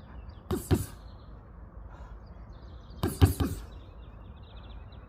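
Heavy knocks in two clusters of two or three strikes, about two and a half seconds apart, with faint bird chirps between them.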